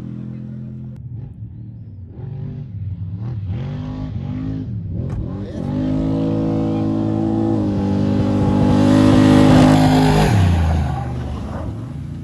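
Off-road race vehicle's engine: a few quick throttle blips, then held at high revs as it comes past. It is loudest about nine seconds in, and the pitch drops sharply as it goes by.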